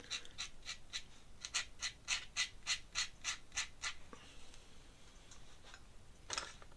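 Pen nib scratching on paper in quick, even hatching strokes, nearly four a second, that stop about four seconds in; one more stroke comes near the end.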